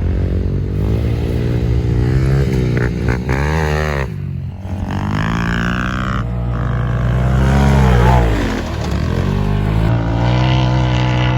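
Off-road vehicle engine revving, its pitch rising and falling several times as the throttle is worked on and off.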